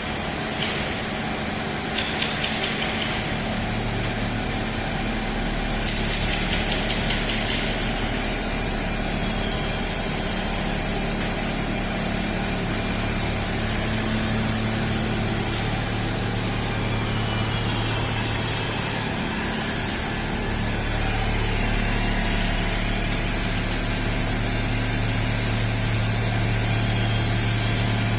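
CNC foam cutting machine running: a steady electric hum with a high hiss, with short spells of fast ticking about two and six seconds in, growing a little louder near the end.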